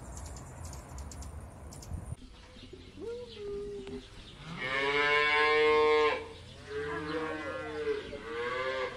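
Cattle mooing: a short moo, then a long loud moo near the middle, then two shorter moos near the end. Before them, for about two seconds, a steady rushing noise with faint high ticks cuts off abruptly.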